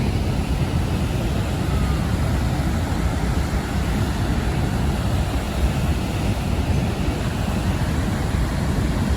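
Steady low roar of falling water with wind buffeting the microphone, heard from aboard a tour boat near the falls.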